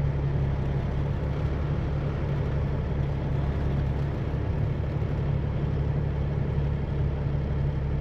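Semi-truck diesel engine running steadily, a constant low hum with no change in pitch.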